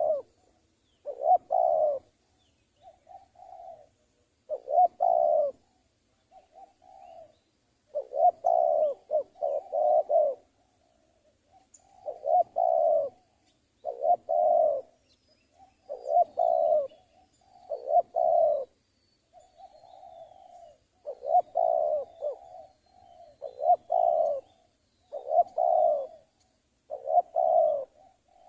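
Spotted doves (tekukur) cooing: loud, repeated coo phrases about every two seconds, with fainter coos between them. Faint high chirps of small birds sound around the middle.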